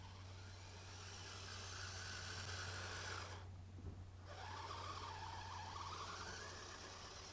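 Brushed electric motor and drive of a Kyosho Blizzard SR radio-controlled snow tractor, a thin whine that rises and falls in pitch as the throttle changes. It cuts out briefly about three and a half seconds in.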